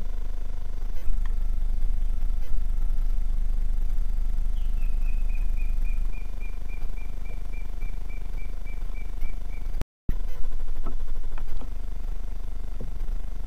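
Steady low rumble from the trail camera's microphone, with a bird calling a run of short, evenly spaced whistled notes, about three a second and slightly falling in pitch, in the middle. The sound cuts out for an instant about ten seconds in.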